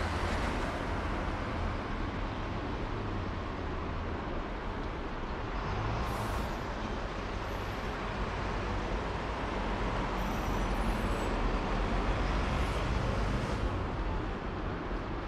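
Honda Crossrunner 800's V4 engine idling steadily through its Akrapovic silencer, a constant low rumble.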